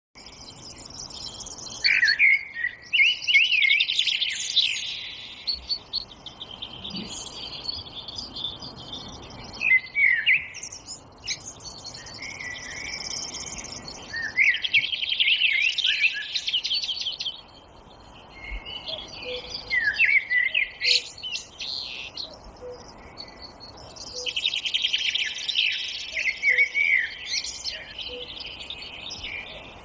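Songbirds singing, with rapid warbling phrases bursting out every few seconds over a soft steady background hiss.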